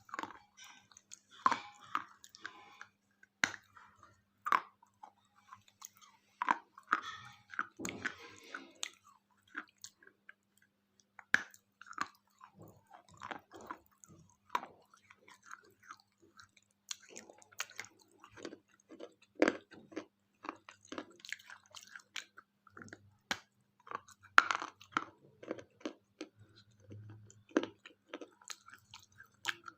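Close-miked chewing and crunching of a KitKat wafer chocolate bar, with sharp, irregular crunches of the wafer between quieter chewing.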